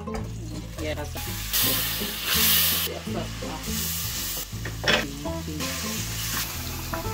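Garlic and spiced onion masala sizzling in hot oil in a cooking pot, in several loud surges of frying hiss as a wooden spatula stirs, with one sharp scrape of the spatula about five seconds in. Background guitar music plays underneath.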